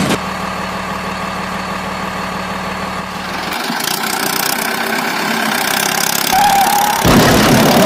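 A vehicle engine running steadily at idle. About three and a half seconds in, the deep hum drops away and a thinner, noisier engine sound takes over, growing louder near the end.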